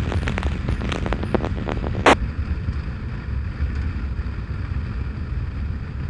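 Motorcycle riding with a steady low engine and wind rumble. Police scanner static crackles at first, and a short burst of static about two seconds in ends the transmission.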